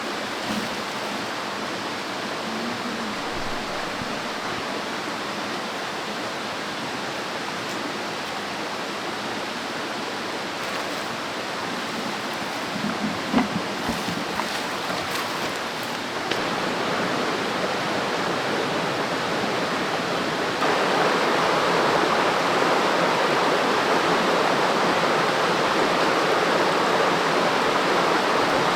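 A steady rushing noise, like running water, that gets louder about 16 seconds in and again about 20 seconds in.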